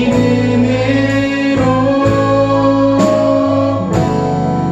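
Live praise-band music: guitars and the band holding sustained chords that change about once a second, between sung lines of a worship song.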